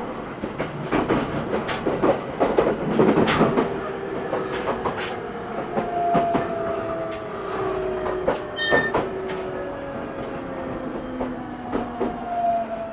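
Interior running sound of an E127 series 0 electric train: wheels click loudly over rail joints for the first few seconds, then motor tones slide slowly down in pitch as the train slows.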